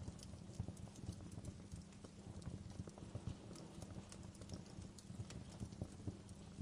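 Wood fire crackling: irregular small pops and snaps over a low, steady rumble.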